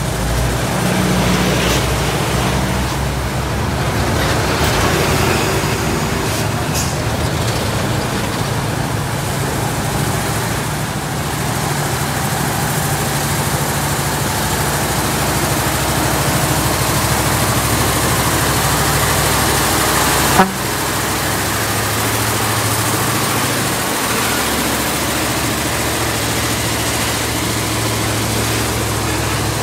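Heavy road-vehicle engines running steadily as traffic moves past, with one sharp click about twenty seconds in.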